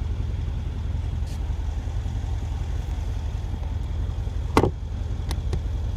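The twin-turbo V8 of a Mercedes-Benz E63 AMG S idling with a steady low rumble. A sharp click comes about four and a half seconds in, followed by two fainter clicks.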